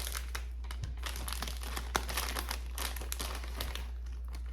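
Plastic candy packet crinkling and rustling in irregular bursts as it is handled, easing off near the end, over a steady low hum.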